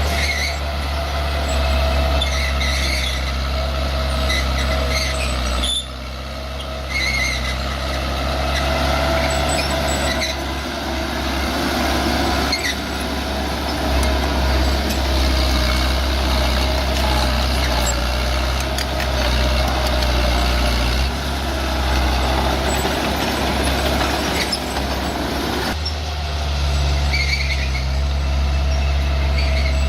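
Bulldozer's diesel engine running steadily at work, the sound shifting abruptly a little before six seconds and again near the end.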